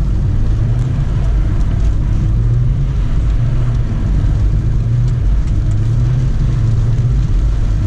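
BMW E46 320d's M47 four-cylinder turbo-diesel engine pulling steadily under throttle at fairly low revs while the car drifts, its low drone wavering only a little in pitch, with road noise.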